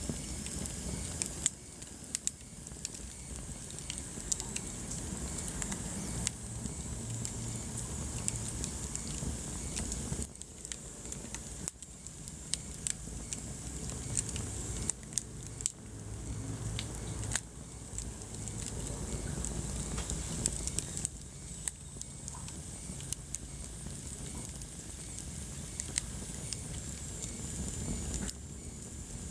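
Wood fire crackling in a fireplace: frequent irregular sharp pops and snaps over a steady low rumble and hiss of the flames.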